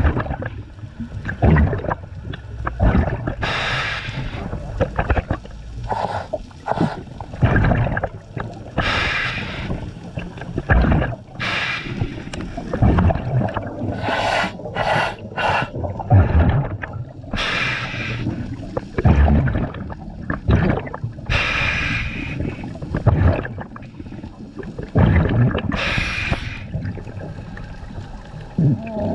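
Scuba diver breathing through a regulator: a hissing inhale every few seconds, between bubbling, rumbling exhales.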